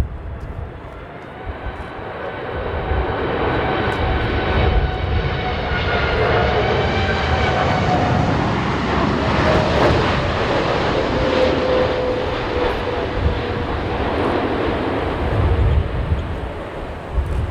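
Jet airliner on landing approach passing close by, its engine whine gliding slowly down in pitch as the noise swells over the first several seconds and stays loud. Gusty wind buffets the microphone.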